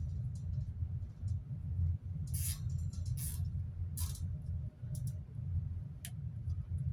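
Small nylon zip ties being pulled tight on a metal fan guard: a few short ratcheting zips, followed by a couple of sharp clicks.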